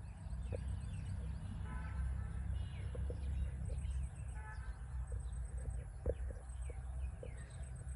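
Low rumble on the microphone, with short bird chirps and calls scattered through.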